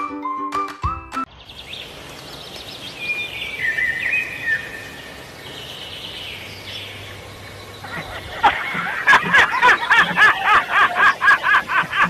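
Brief music, then high, thin bird chirps over outdoor background noise. From about eight seconds a louder, fast rhythmic run of repeated pitched sounds takes over, about three a second.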